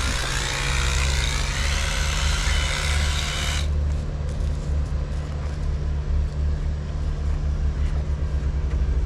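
Steady low rumble, like a vehicle running, with a hiss over it that cuts off suddenly about three and a half seconds in.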